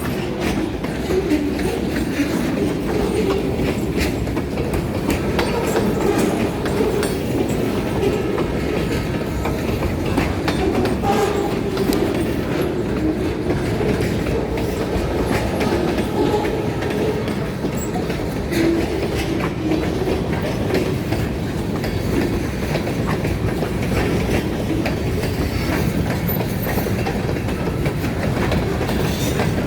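Freight train rolling past, with its cars' wheels clacking steadily over the rail joints.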